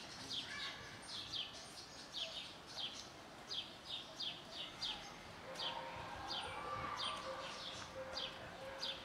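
Small birds chirping over and over, short high chirps that drop in pitch, about two a second. A faint steady hum comes in about halfway through.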